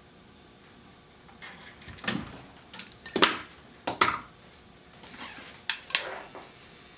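Metal tools and small parts clinking and clattering on a workbench: a string of sharp, irregular clicks and knocks, the loudest a little past the middle.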